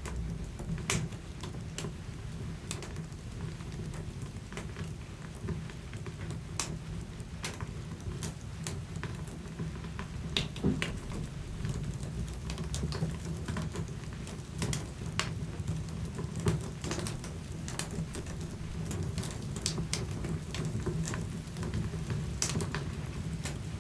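Wood fire burning in a fireplace: a low steady rush of flames with irregular sharp crackles and pops, a few of them louder than the rest.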